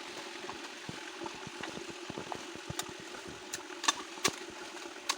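Small stream trickling steadily, with scattered short splashes and knocks, the sharpest about four and five seconds in.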